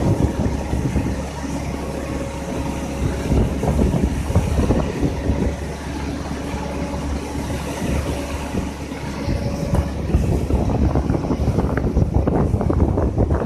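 Excavator diesel engine running steadily under a heavy low rumble, with a steady whine over it. About eleven seconds in, rattling and clanking grows louder.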